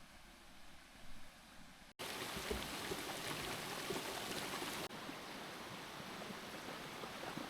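Quiet outdoor ambience, then about two seconds in an abrupt cut to the steady rush of flowing water from a stream, which drops slightly in level about five seconds in.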